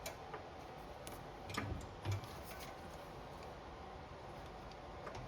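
Faint scattered clicks and two soft knocks in the first half, from a small metal throttle linkage rod being handled and tried against the generator carburetor's throttle linkage.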